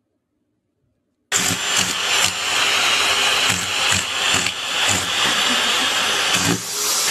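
Vacuum cleaner running close up, its hose nozzle held against a cat; the loud suction noise cuts in suddenly about a second in after near silence and wavers in level.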